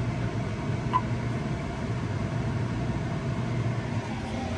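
Vehicle engine running steadily at an even speed, with one short click about a second in.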